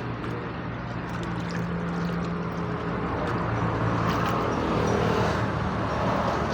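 An engine running steadily, with a broad rushing noise over it.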